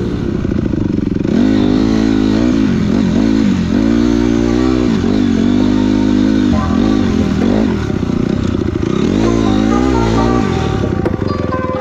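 Motocross dirt bike engine on the track, revving up and falling back over and over as the throttle is opened and closed and the gears change.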